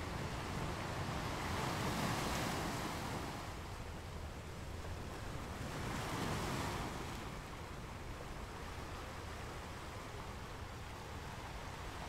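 Small, calm ocean waves breaking on a sandy beach: two swells of surf wash in, about a couple of seconds in and again about four seconds later, over a steady low rumble.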